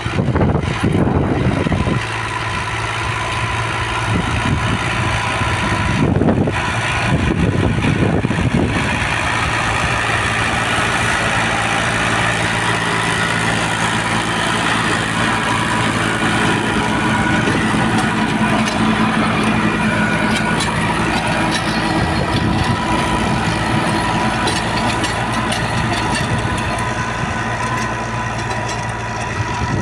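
Ghazi 65 hp tractor's diesel engine running steadily. It sounds rougher and noisier in the first couple of seconds and again around six to nine seconds in.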